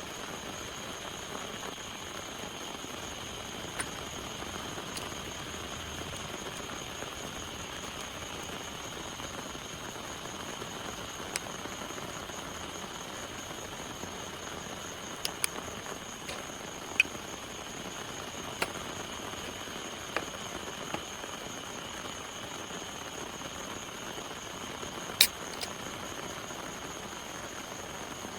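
Steady rain falling, an even hiss, with a dozen or so sharp single clicks scattered through it, the loudest about three-quarters of the way in.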